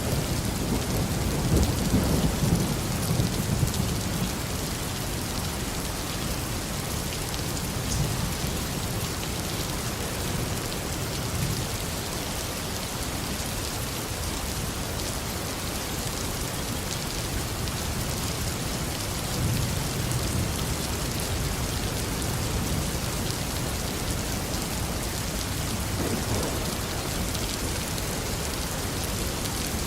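Steady, heavy tropical rain falling, with low rumbles of thunder rolling in during the first few seconds and again about two-thirds of the way through.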